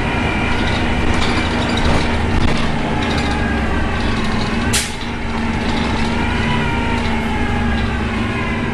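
Optare Tempo single-deck bus heard from on board: the engine running with an odd howling whine whose pitch slowly rises and falls over a steady low hum. A short sharp hiss of air about five seconds in.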